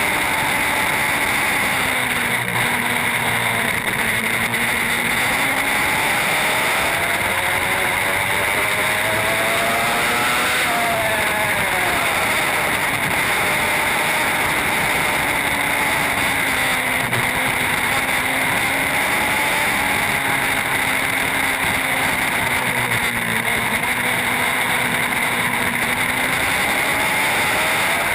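Racing superbike engine running at high revs over a steady rush of noise, its pitch climbing and falling as the rider works the throttle. There is a sharp drop in revs about eleven seconds in.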